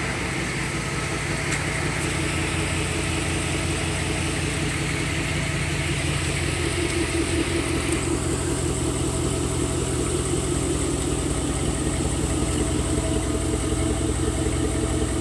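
V8 exhaust through dual Black Horse mufflers, dumped out under the body, idling steadily with a deep, low rumble; the engine is already warm.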